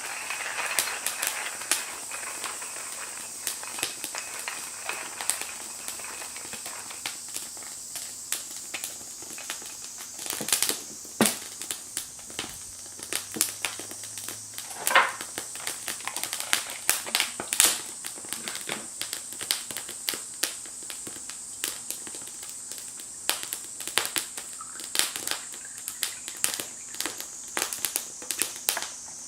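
Wood fire crackling in a Firebox stove: irregular sharp pops and snaps over a faint steady hiss, with a few louder pops around the middle.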